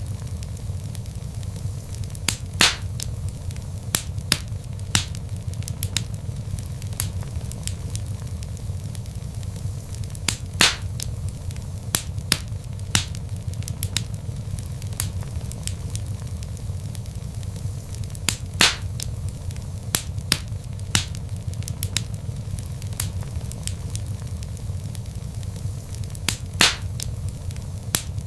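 Log fire burning with a steady low rumble and irregular crackles and pops, a few pops standing out louder.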